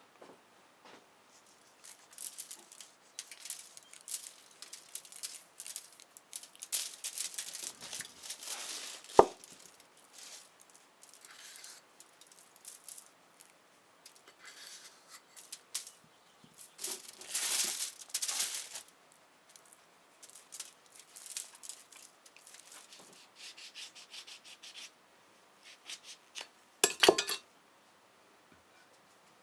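Intermittent kitchen handling sounds: rubbing and rustling with quiet gaps between, a single sharp knock about nine seconds in, and a brief clatter near the end.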